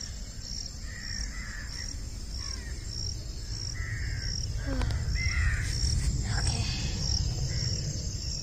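Birds calling with short, repeated calls about once a second, over a steady high-pitched insect chirp pulsing about one and a half times a second and a low rumble.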